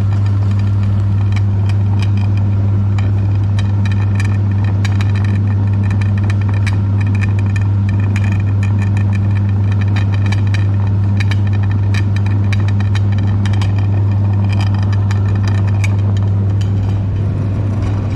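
Electric meat grinder running with a steady motor hum, with scattered clicks and crackles as ice cream is ground through it.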